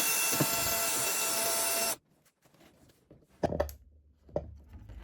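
Small electric screwdriver running steadily as it backs out a case screw, stopping abruptly about two seconds in; a few light knocks of handling the plastic casing follow.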